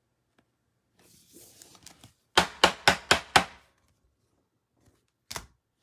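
Cards tapped against a tabletop: five quick, sharp knocks about four a second, after a little soft rustling, and one more knock near the end.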